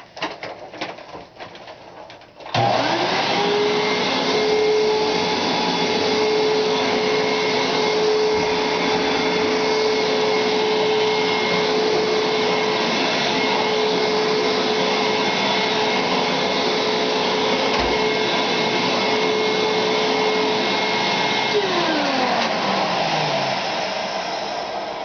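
Vacuum cleaner switched on a couple of seconds in, quickly winding up to a steady hum with a thin high whine above it. After about twenty seconds it is switched off and its pitch falls away as the motor spins down.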